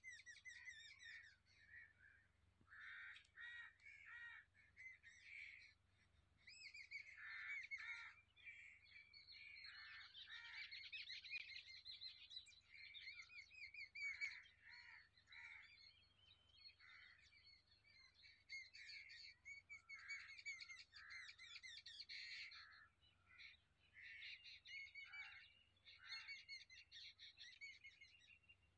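A faint chorus of birds calling and chirping, many short warbling calls overlapping with brief gaps between bursts.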